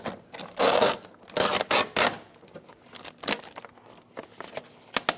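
Plastic vapor barrier being peeled off a car's front door, tearing away from its adhesive in a few noisy pulls during the first two seconds. Lighter crinkles and sharp ticks follow.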